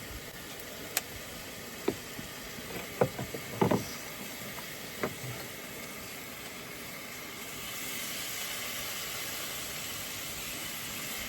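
Steak and potatoes sizzling in a skillet, a steady hiss with a few sharp knocks and clicks in the first five seconds. The sizzle grows louder about two-thirds of the way through.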